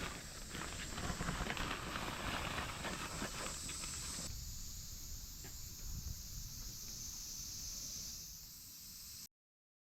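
Rustling and scattered light clicks over a steady high hiss, busiest in the first four seconds, cutting off abruptly about nine seconds in.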